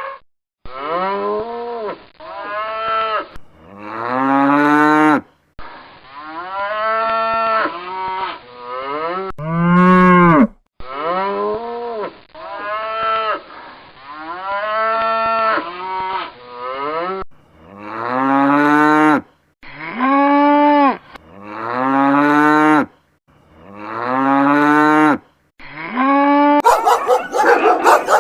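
Cattle mooing: a series of long, deep moos, about fifteen in all, joined by hard cuts. Some rise in pitch and some fall.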